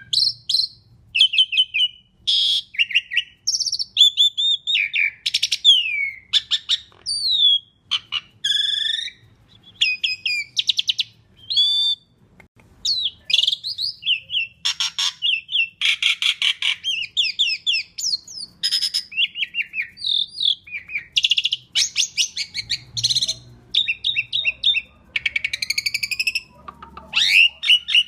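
Black-collared starling (jalak suren) singing a long, fast medley of loud clear whistles, chirps and harsh rasping notes, with only short pauses between phrases.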